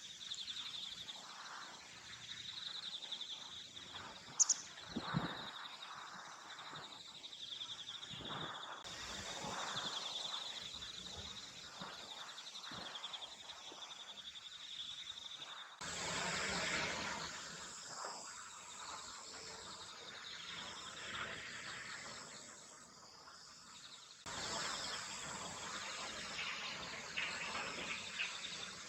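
Open-field ambience with insects chirring, a steady high continuous trill, and a short sharp chirp about four seconds in. The background changes abruptly three times.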